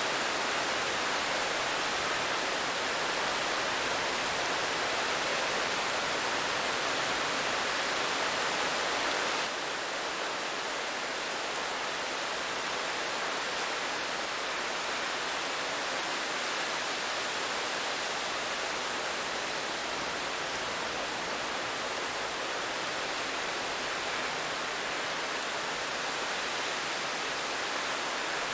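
Steady rain: an even hiss with no separate drops standing out, dropping slightly in level about nine seconds in.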